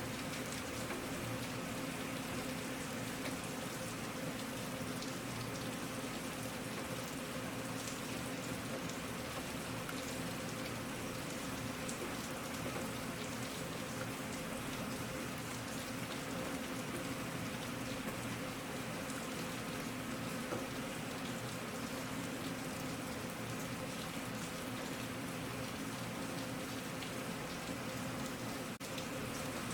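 Steady rainfall, many small drops striking surfaces, with a faint steady low hum underneath and a brief dip in the sound near the end.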